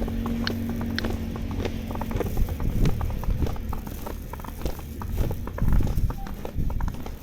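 Footsteps crunching through deep fresh snow at a steady walking pace. A low steady hum fades out about two seconds in.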